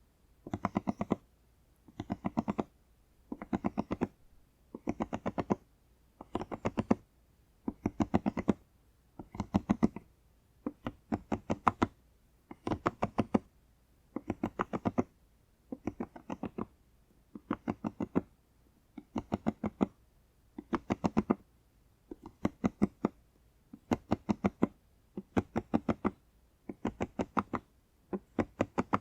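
Pop-it fidget toy being popped: quick runs of several sharp pops, a row of bubbles pressed in turn, repeating about once a second.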